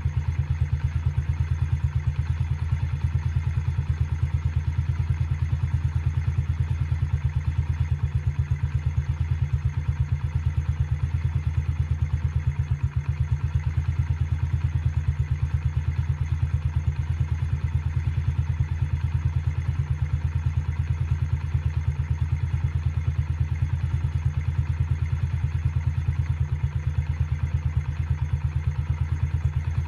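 Dirt bike engine idling steadily with an even, rapid beat.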